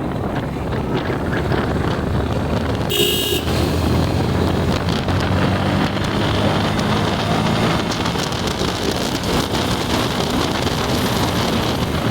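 Motorbike riding in traffic: steady engine and road rumble with wind on the microphone, and a vehicle horn tooting once, briefly, about three seconds in.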